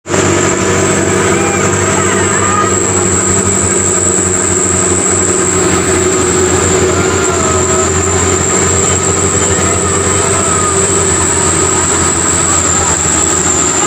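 Heavy diesel truck engine running steadily with a deep rumble, a constant thin high-pitched whine above it.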